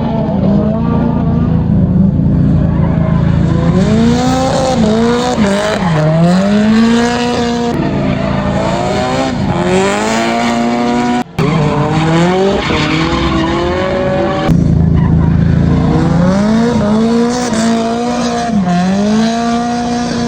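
Drift cars' engines revving hard, pitch repeatedly climbing and dropping as they drift past, over the hiss of tyres squealing and skidding. The sound breaks off for a moment about eleven seconds in, where one clip cuts to the next.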